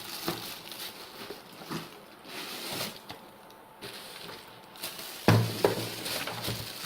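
Packaging being handled as a boxed fan heater is unpacked: scattered rustling and small knocks, then a loud hollow thump a little after five seconds in, followed by a second knock.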